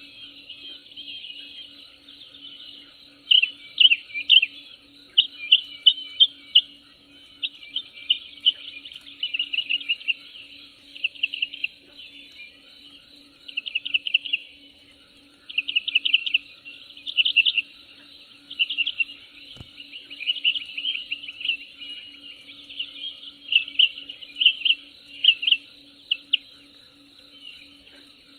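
Birds chirping in short, rapid trills every second or so over a steady high insect drone, with a faint low pulsing buzz underneath.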